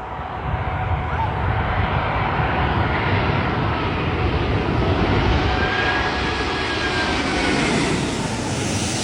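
Airbus A380's four jet engines passing low overhead: a deep, loud rumble that builds over the first few seconds and stays strong through the middle, with thin whining tones above it, easing off near the end.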